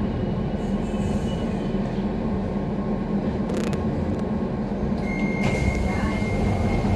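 Docklands Light Railway train running, a steady low rumble of wheels and motors. There is a brief click about three and a half seconds in, and a steady high-pitched tone sets in about five seconds in.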